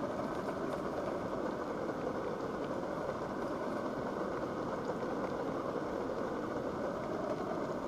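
Sliced potatoes frying in a pan, a steady, muffled sizzle.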